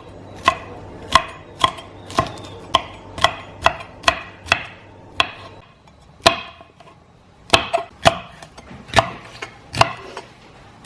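Kitchen knife chopping on a cutting board in steady strokes, about two a second, with a short pause about halfway through.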